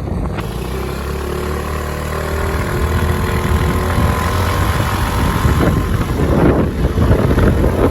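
Motorcycle engine running while riding, growing a little louder after about three seconds.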